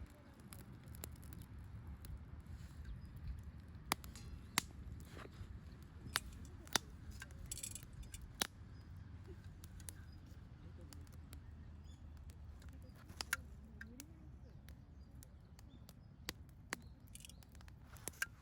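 Wood campfire burning, crackling with irregular sharp pops and snaps over a steady low rumble.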